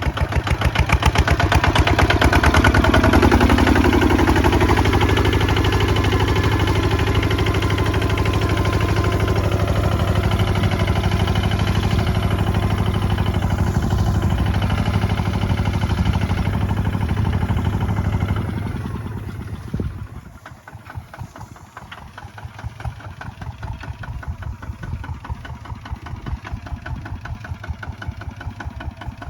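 Kubota ZT155 walking tractor's single-cylinder diesel engine running hard with a fast, even thudding rhythm while plowing. About two-thirds of the way in it drops back sharply after a single click and runs on much quieter, near idle.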